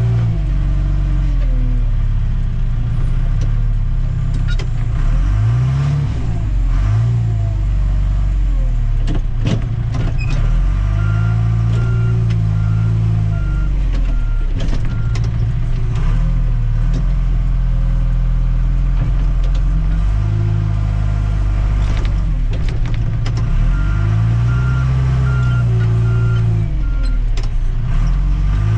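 Tractor-loader-backhoe's diesel engine running, its pitch rising and falling again and again as the throttle is worked. A reversing alarm beeps in two stretches, once around the middle and again near the end.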